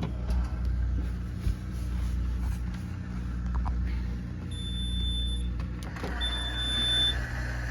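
Miele dishwasher running in its F70 error state: a steady low motor hum, with two long high-pitched beeps of about a second each, the first about halfway through.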